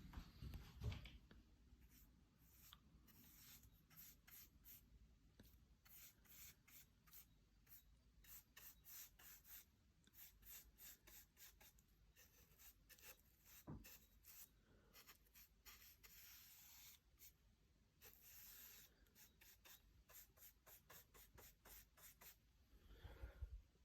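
Faint, quick rubbing strokes of an applicator spreading varnish over wood, several a second with short pauses and a couple of longer swishes.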